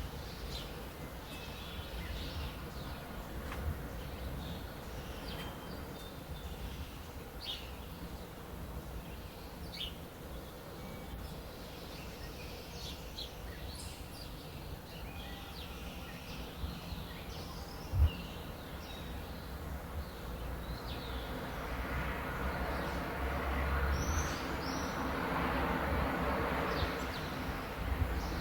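Birds chirping in short, scattered calls over a low outdoor rumble. There is a single sharp knock about two-thirds of the way in, and near the end a broad rush of noise swells up and grows louder.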